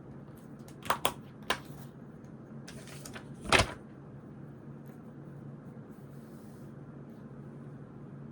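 Stationery being handled on a study desk: a few sharp clicks or taps about a second in, a louder knock about three and a half seconds in, and soft paper rustling, over a steady low hum.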